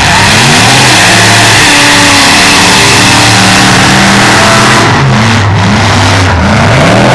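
Eight-cylinder demolition derby car engines revving hard, their pitch rising and falling again and again as the cars accelerate and back off, very loud.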